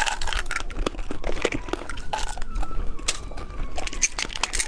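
Plastic candy packaging being handled, with irregular crinkling and clicking.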